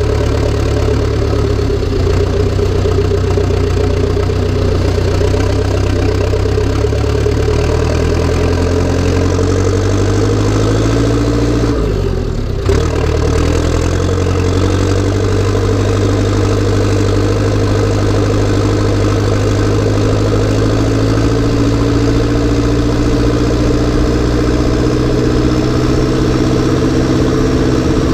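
Massey Ferguson 590 tractor's turbocharged, straight-piped diesel engine running hard under load. Its pitch climbs gradually, drops out briefly about twelve seconds in, then rises slowly again.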